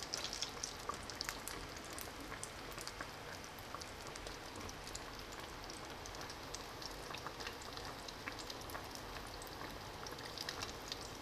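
Breaded chicken patties deep-frying in hot oil: a steady sizzle dotted with many small pops and crackles, slightly busier in the first second.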